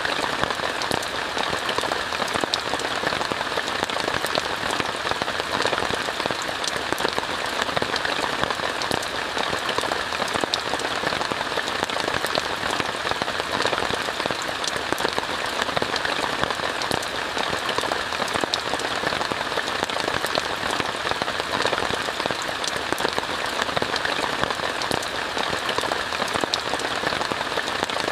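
Steady rain on tent fabric, an even wash of many small drop ticks that keeps up without a break.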